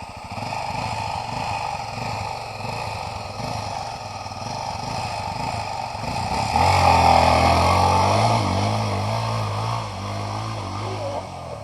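Trail motorcycle engine running at low revs, then getting louder about halfway through as it is revved and pulls away.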